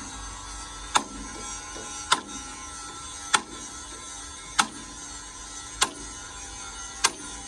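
Sharp, evenly spaced knocks, about one every 1.2 seconds, over a steady ringing tone.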